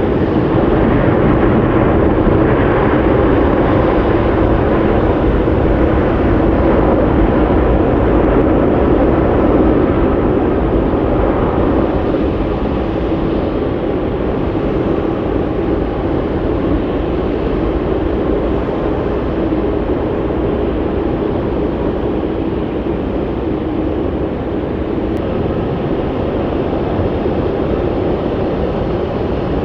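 Jet airliner engines, a loud steady noise that eases slightly about ten seconds in.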